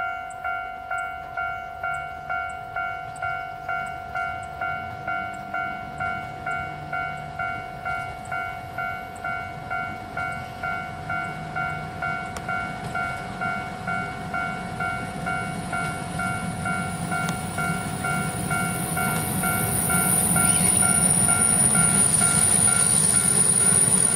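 Level crossing warning bell ringing about twice a second as a JR Hokkaido KiHa 261 series diesel express train approaches. The train's engine and wheel rumble grow steadily louder. A high steady squeal joins in near the end as the train brakes into the station.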